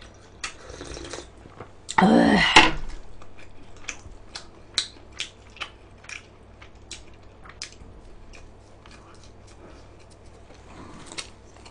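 Close-miked eating: a long run of small wet mouth clicks and smacks from chewing food, with a short vocal sound about two seconds in.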